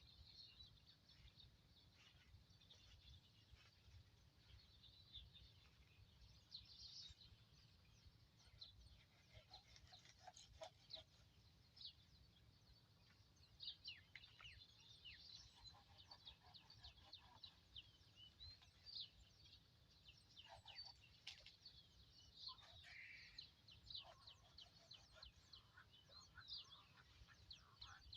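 Faint chirping of birds, many short high calls scattered throughout, over a steady low rumble.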